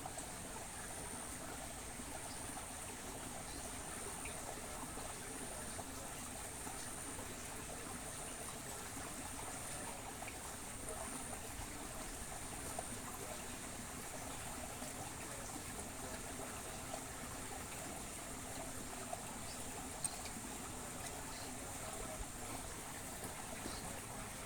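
Water flowing steadily in a small stream, with a faint high-pitched tone repeating through the first half and a few faint clicks.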